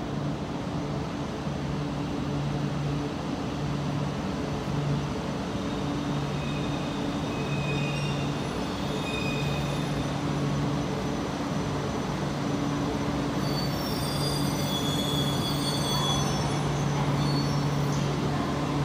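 E4 series Max double-deck Shinkansen pulling slowly into the platform and slowing to a stop, with a steady low electric hum. High squealing tones join as it brakes, from about seven seconds in until near the end.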